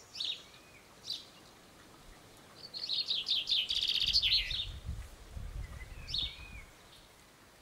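Songbird calling outdoors: a few short high chirps and one fast, loud trill of about two seconds in the middle, with a low rumble beneath the latter part.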